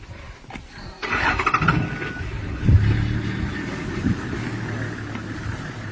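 A motor vehicle's engine starting about a second in, then idling steadily.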